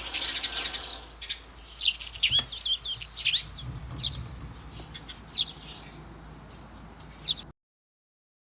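Birds chirping: a run of short, sharp calls, many dropping quickly in pitch, over a faint low hum. The sound cuts off suddenly near the end.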